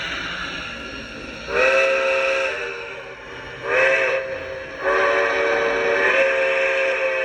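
Recorded steam whistle from a Lionel O-gauge Dreyfus Hudson model locomotive's onboard sound system, blown as a chime whistle in separate blasts: one about a second long, a short one, then a long drawn-out blast to the end, each scooping up in pitch as it starts.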